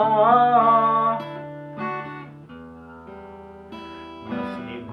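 Acoustic guitar accompaniment, chords picked and strummed, in a pause between sung lines. A held sung note with vibrato trails off about a second in.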